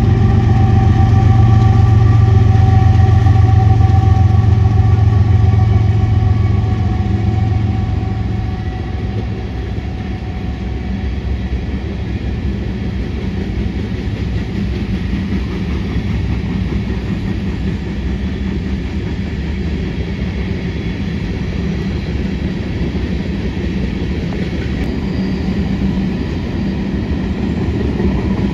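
Diesel locomotives of a freight train running loud with a steady engine drone, fading about seven or eight seconds in as the train's cars roll past with a steady rumble.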